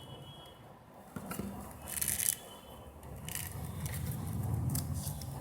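Craft materials being handled: a short scrape or rustle about two seconds in and a briefer one a second later, over a low steady hum.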